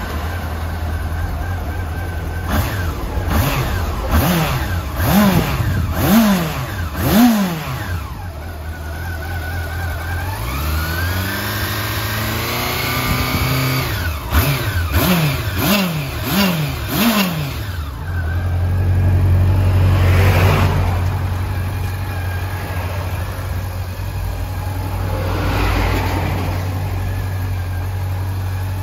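Honda CB400 Super Four Revo (NC42) inline-four engine idling and being revved with the throttle: five quick blips in the first several seconds, a slower climb held for a few seconds in the middle, four more quick blips, then a steady idle.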